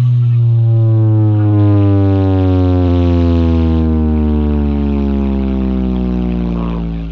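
A loud electronic bass tone from a large carnival sound system, one long note sliding slowly down in pitch and stopping near the end.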